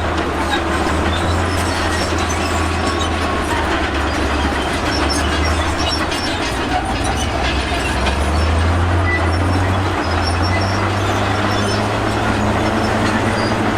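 Heavy diesel earthmoving machinery running steadily under work, a low engine drone with metallic clatter and rattling over it.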